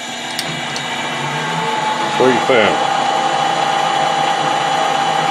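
Metal lathe running with a steady whine, growing louder over the first two seconds after it starts.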